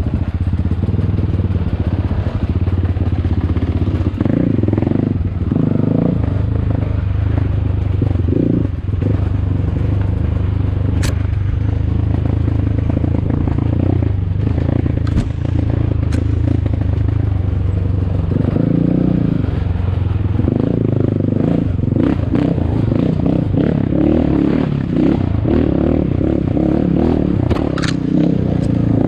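ATAKI DR 250 enduro motorcycle engine running at low revs, the pitch shifting a little about two-thirds of the way through. Clattering and scraping come from the bike working over rough ground, with a few sharp knocks.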